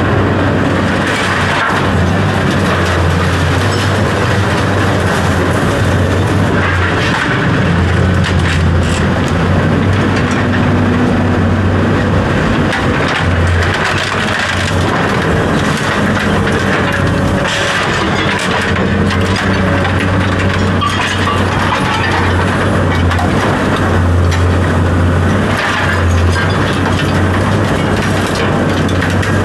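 Steady loud machine noise with a low hum that cuts out briefly every few seconds, and scattered knocks and clicks over it.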